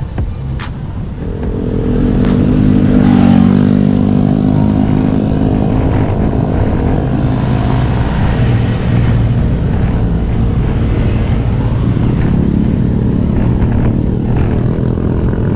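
A motor vehicle engine runs close by, its hum rising in about a second and a half in and dropping in pitch about three seconds in, then holding steady. Low wind rumble lies under it.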